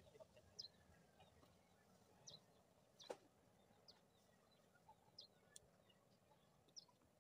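Faint outdoor quiet with small birds giving short, high chirps at irregular intervals, about one a second, and a single sharp click about three seconds in.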